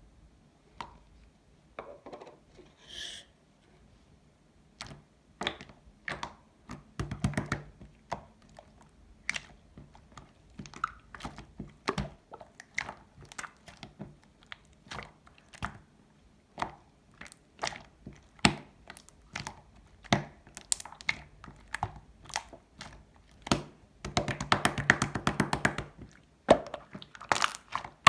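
Silver pearl-marbling slime being squished and pressed by hand, giving irregular sharp pops and clicks of trapped air; near the end it breaks into a dense run of rapid crackling.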